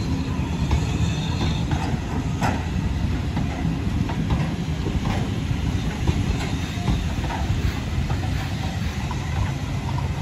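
Railway train running along the track: a steady low rumble with scattered sharp clicks from the wheels over the rail joints.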